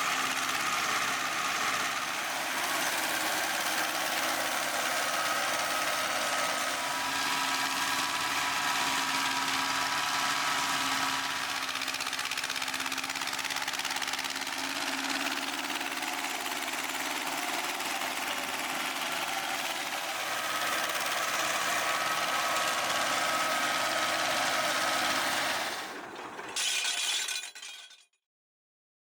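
Tractor-driven flail mulcher running, a steady dense mechanical clatter with a faint whine. It stops abruptly near the end, with one short burst and then silence.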